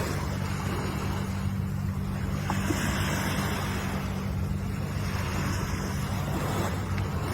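Ocean surf washing in, the hiss of the waves swelling and easing every few seconds, over a steady low hum.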